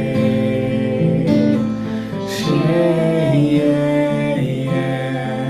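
Voices singing a slow chant of long held syllables over plucked-string accompaniment, with the hissing 'sh' of 'shay' about two seconds in.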